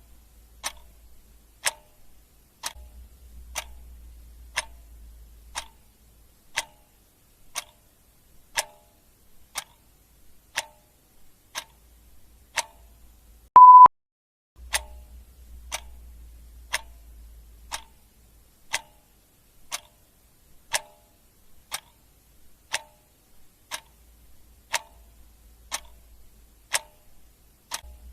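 A clock ticking steadily and evenly. A short, loud, high beep sounds once about halfway through.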